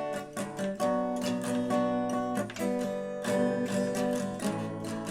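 Acoustic guitar strumming chords in a steady rhythm, the instrumental intro to a song, with the chord changing every second or so.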